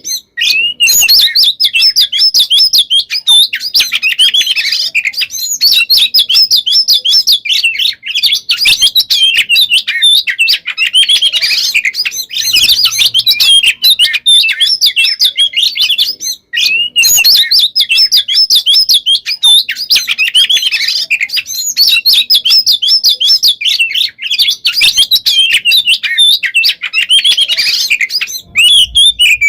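Oriental magpie-robin (kacer) singing a dense, near-nonstop song of rapid, varied whistles and trills, broken only by short pauses near the start and about halfway through. This unbroken run of calls and rolling trills is the 'gacor konslet' song that bird keepers use as a lure to set other kacer singing.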